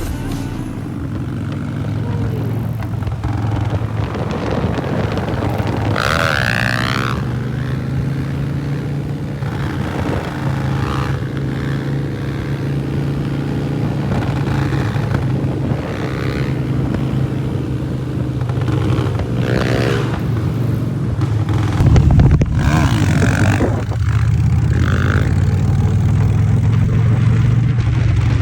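Motor vehicle running at a steady low engine and road drone, with a few brief louder noises over it.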